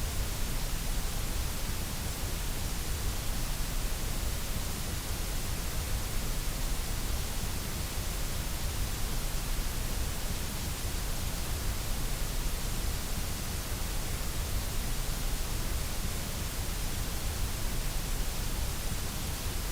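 White noise: a steady, unchanging hiss with a low rumble underneath.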